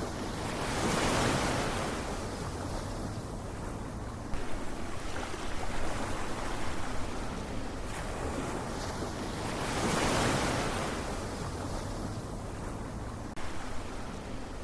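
Ocean surf: waves washing in as a steady rush, swelling up twice, about nine seconds apart.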